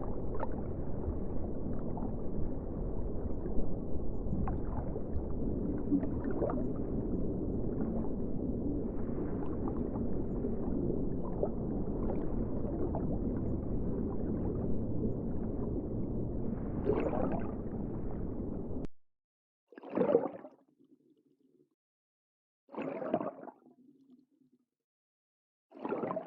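Underwater water noise, a steady rush that cuts off suddenly about 19 seconds in. It is followed by three short bursts about three seconds apart, each trailing off in a faint low hum.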